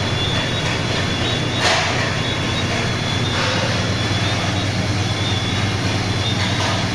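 Projection resistance welding machine on a factory floor: a steady electrical hum under continuous machine noise, with a short sharp burst about a second and a half in and a fainter one near three and a half seconds, the weld cycles of the press.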